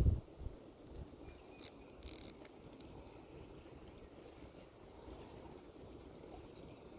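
Faint outdoor background with insects, with a couple of low handling thumps at the start and two short hissing rustles or splashes about one and a half to two seconds in, as a small fish is brought in on a rod.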